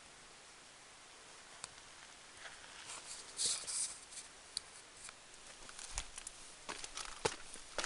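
Footsteps, scuffs and rustling of a hiker moving over rock: scattered clicks and scrapes that start about a second and a half in and grow busier and louder in the second half.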